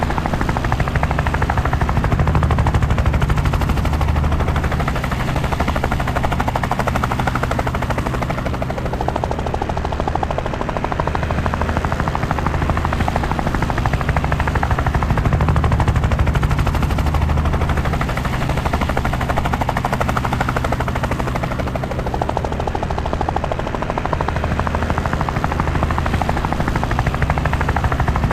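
Helicopter in flight, heard from on board: the steady, rapid chop of the rotor blades over the engine's low drone, swelling and easing slightly every few seconds.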